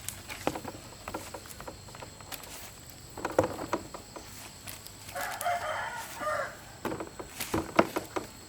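A rooster crowing once, about five seconds in, among a few sharp knocks and thumps, the loudest one near the end.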